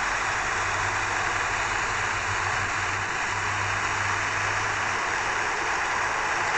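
Steady rushing water with a low, even hum underneath.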